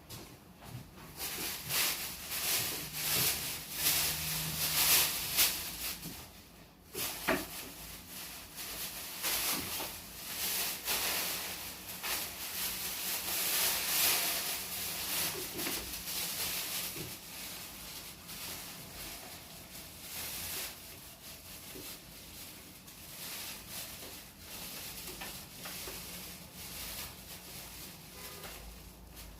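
Close-miked chewing and eating of a turkey-and-cheese sandwich: irregular wet mouth sounds and crunches, busier in the first half and calmer later.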